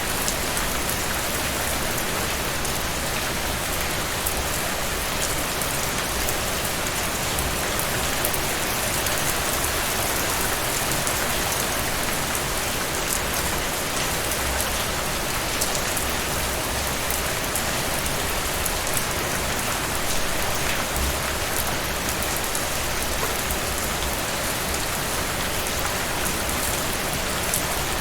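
Steady heavy rain falling, a dense even hiss with many fine drop patters.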